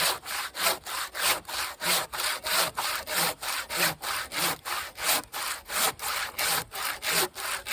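Husky 20-inch fine-tooth hand saw cutting through a dry tree trunk in quick, short back-and-forth strokes, about three a second. The cut is nearly through the log.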